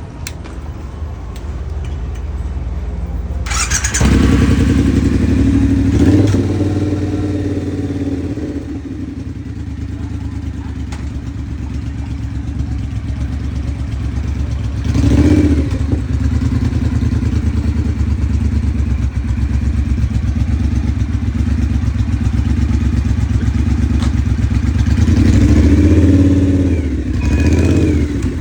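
Triumph Bonneville T120 parallel-twin motorcycle engine running, quieter at first, then markedly louder from about four seconds in. It is blipped briefly several times, with a short rev in the middle and a longer run of revs near the end.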